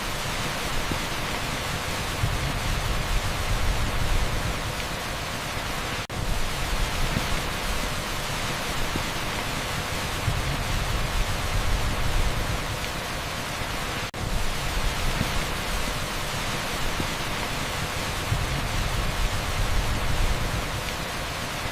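Heavy downpour on a street: a dense, steady rain hiss blended with pink noise. It dips out for a split second twice, about six and fourteen seconds in.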